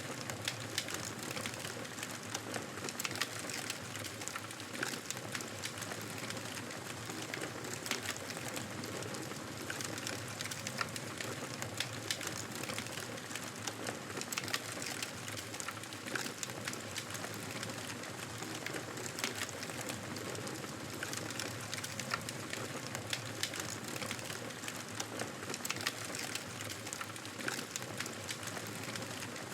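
Wood fire crackling in a fireplace: a steady hiss of flames with dense, irregular small pops and snaps.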